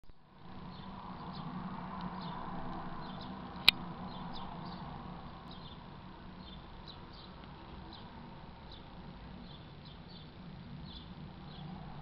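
Garden birds chirping: short, high calls repeating every half second or so over a steady low hum. One sharp click about three and a half seconds in.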